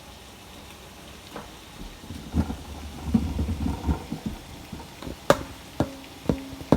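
Kitchen cooking sounds: a crackly, rushing stretch of pan or water noise about two seconds in, then four sharp clicks or knocks of cookware about half a second apart near the end.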